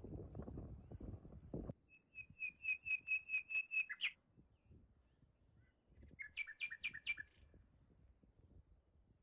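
A songbird singing a fast run of about ten repeated high notes that ends in a quick flourish, then a second, shorter phrase. A low rumbling noise fills the first second and a half, then stops.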